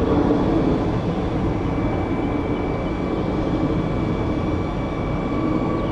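Jet airliner engines running: a steady rushing noise with a thin, steady whine over it.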